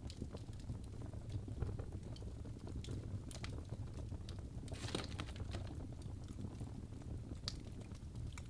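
Wood fire burning in a fireplace: a steady low rumble of flames with irregular crackles and pops, the sharpest pops about five seconds in and again near the end.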